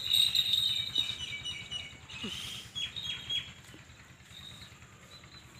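Bird chirping: a quick run of short, high chirps, loudest in the first second and thinning out after about three seconds.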